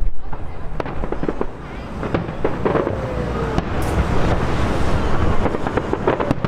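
Fireworks display going off: a string of sharp bangs and crackles over a steady low rumble.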